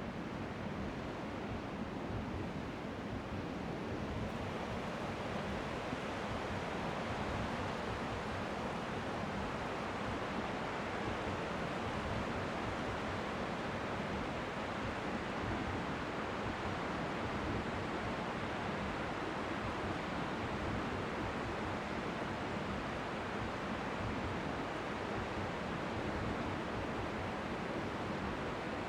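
Strong wind blowing steadily, with faint waves lapping on the shore beneath it, together making an even, white-noise-like hiss.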